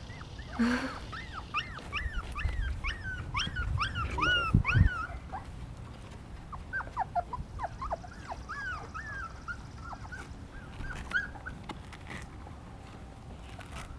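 Puppies whining and yelping: many short, high cries that rise and fall, coming thick and fast for the first five seconds and then more scattered. A dull low thump comes near the middle.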